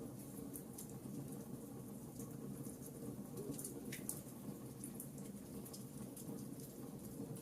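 Wood fire crackling in a fireplace: irregular small sharp pops and ticks over a steady low rush of the burning fire.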